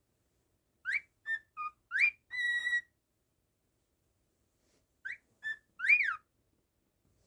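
Cockatiel whistling a tune in two short phrases of clear notes with swooping up-and-down whistles; the first phrase ends on a held note, and there is a pause of about two seconds between the phrases.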